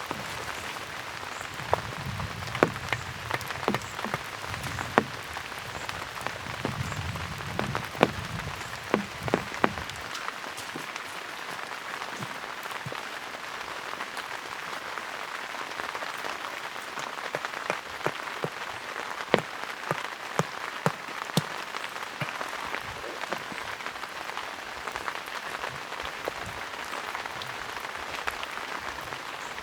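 Steady rain falling, with many sharper drops ticking irregularly over the hiss. There is some low rumble during the first third.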